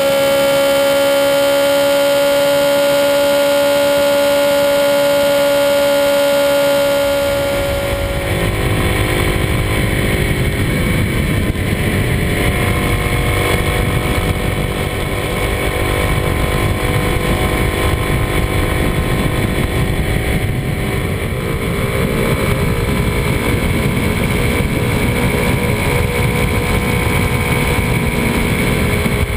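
For about seven seconds a steady, unchanging hum. Then the Kawasaki D-Tracker 250's single-cylinder engine runs under way with heavy wind rush, its pitch rising and falling with the throttle through the bends.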